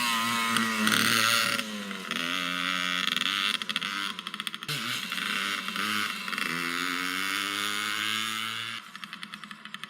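Small Suzuki ATV engine revving up and down, with an uneven, choppy stretch in the middle, then dropping to a quieter, pulsing idle near the end.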